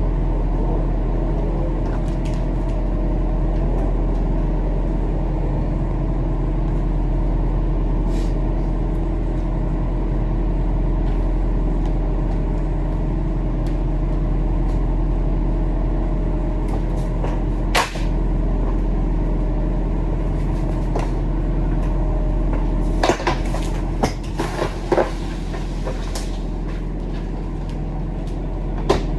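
Heavy truck engine running steadily, with a sharp click about eighteen seconds in and a cluster of knocks and rattles about twenty-three to twenty-five seconds in.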